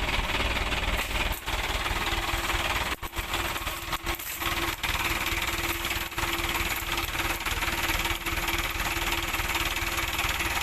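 Diesel truck engine running under load with a rapid clattering beat; a steady whine comes in about three seconds in and holds.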